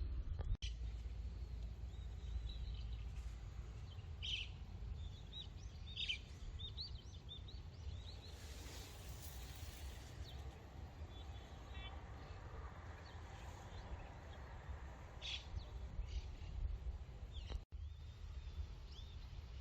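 Outdoor ambience: small birds chirping in short scattered calls over a steady low rumble, with a brief hiss near the middle.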